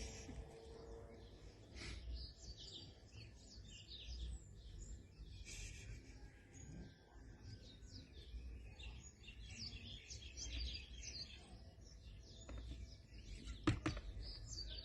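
Small birds chirping and twittering many times over, faint, over a low rumble. A single sharp click near the end is the loudest sound.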